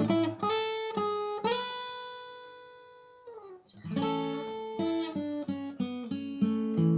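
Solo acoustic guitar played fingerstyle: a few plucked notes, then a chord left ringing and fading for about two seconds, a short pause, and the picking resumes with low bass notes.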